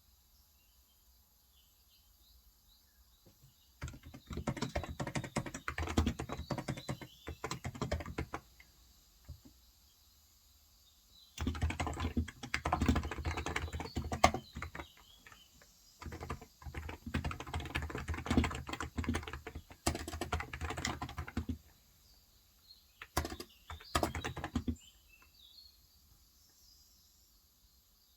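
Typing on a Cox Endeavour electro-capacitive (topre-style) 35 g tenkeyless keyboard, in four bursts of a few seconds each with quiet pauses between. Faint bird chirps sound in the pauses and behind the typing.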